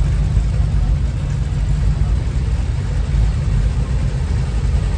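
A vehicle engine idling with a steady, deep rumble.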